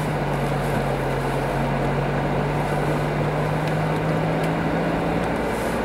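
Car running, heard from inside the cabin as it sets off, with a steady low hum that stops near the end.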